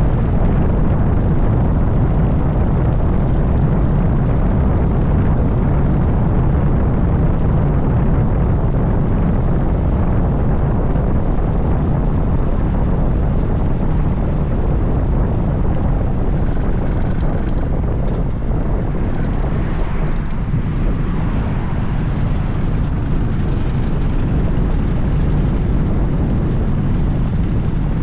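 Harley-Davidson Dyna Super Glide's air-cooled V-twin engine running steadily while the motorcycle is ridden at cruising pace.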